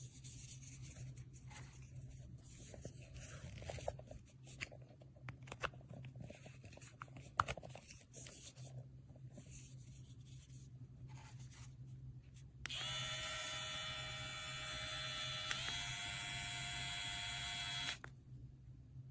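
Plastic parts of a cordless pet grooming kit being handled with scattered clicks and rattles, then a small cordless pet trimmer's motor is switched on about 13 seconds in and runs with a steady high hum for about five seconds, its pitch stepping up slightly partway, before being switched off.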